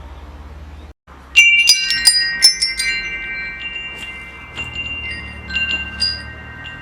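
Metal wind chimes: a low steady rumble, a brief cut to silence about a second in, then a quick flurry of chime strikes whose clear high tones ring on, followed by scattered single strikes.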